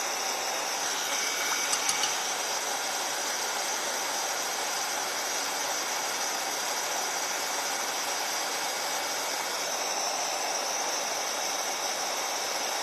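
Handheld dryer blowing steadily, drying wet watercolor paint on paper cards. There are a couple of faint clicks about two seconds in.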